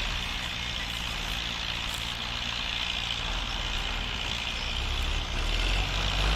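Diesel farm tractor running steadily while pulling a disc harrow through the field, growing louder near the end as it comes closer.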